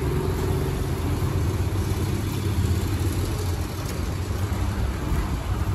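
A motor vehicle's engine idling as a steady low rumble.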